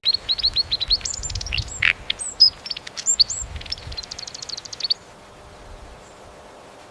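A songbird singing: a fast run of high chirps, short falling notes and trills that starts abruptly and stops about five seconds in, over a steady background hiss.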